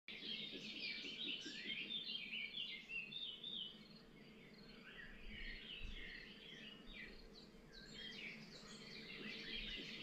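Faint birdsong: several small birds chirping in quick, overlapping calls, thinning out in the middle and picking up again near the end.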